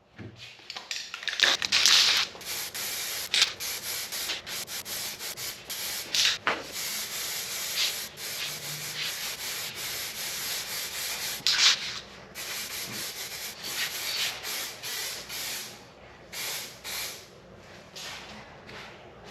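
Primer being sprayed onto a motorcycle headcowl fairing as a wet coat: a steady hiss in long passes, broken by short pauses between passes.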